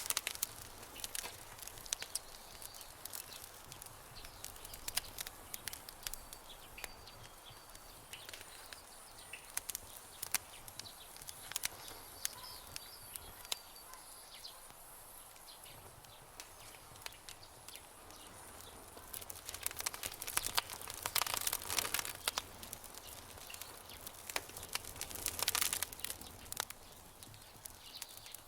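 Campfire crackling and popping: scattered sharp snaps over a soft hiss, with denser flurries of crackles about two-thirds of the way in and again near the end. Faint high chirping sounds in the middle.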